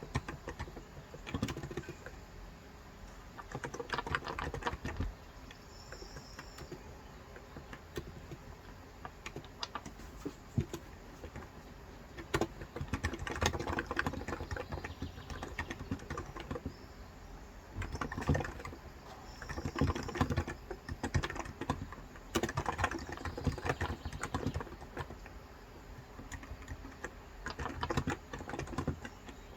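Typing on a Cox Endeavor electrostatic capacitive (non-contact) keyboard with light 35 g switches. Keystrokes come in bursts of rapid clicks with short pauses between them.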